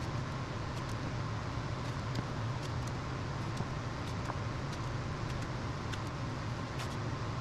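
Steady low machine hum, even throughout, with a few faint light ticks.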